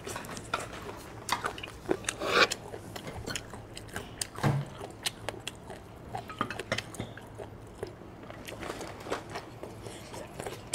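Chewing and biting into spicy chicken feet: a string of short, irregular mouth clicks with a few louder bites.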